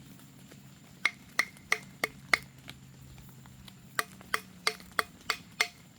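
Two runs of sharp metallic knocks, five and then six, about three a second, each with a brief ring: a hard tool or object knocking on the freshly dug-up iron relic.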